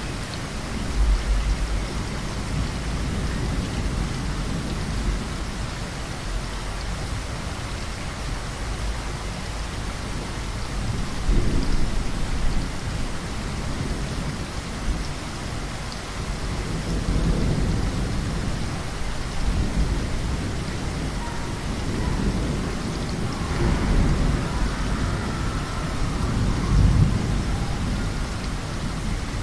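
Heavy rain falling steadily, with rolling thunder rumbling through it several times, loudest about a second in, around twelve seconds in, and near the end.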